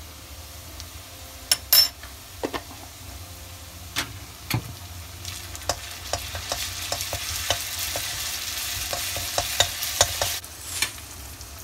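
Chopped onions and ginger garlic paste sizzling in hot oil in a wok while a metal spatula stirs and scrapes, clinking against the pan. The sizzle grows louder about halfway through and falls away shortly before the end.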